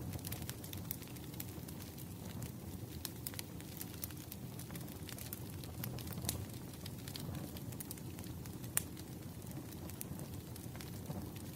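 Fireplace fire crackling: irregular sharp pops and snaps over a steady low rumble of the flames, with one louder pop about nine seconds in.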